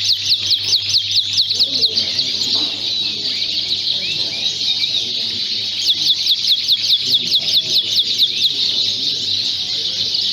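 Many Fife fancy canaries singing at once: a dense, continuous chorus of chirps and warbles. A rapid trill of quick falling notes, about seven a second, stands out near the start and again about six seconds in.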